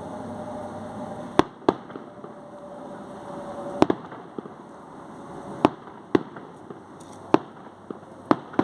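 Fireworks going off: about eight sharp bangs at irregular intervals, some in quick pairs, over a steady background rumble of the crowd and surroundings.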